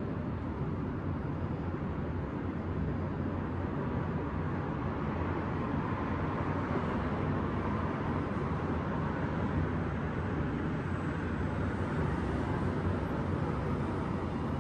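City traffic ambience: a steady rumble of vehicles on the streets below, brightening a little for several seconds in the middle.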